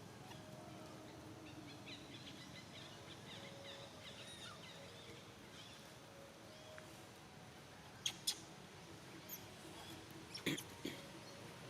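Faint high-pitched animal squeaks and chirps over a low background hiss, with a few sharp clicks about eight seconds in and again near the end.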